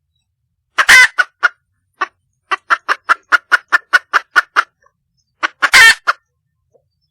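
Red junglefowl hen cackling: a loud squawk, a quick run of about ten short clucks at roughly five a second, then another loud squawk. It is a wild hen's call to attract a male.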